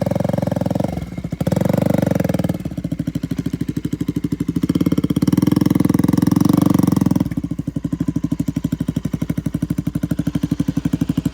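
KTM RC 200's single-cylinder engine running with an even throb through the exhaust, revved up briefly about two seconds in and again for a couple of seconds in the middle.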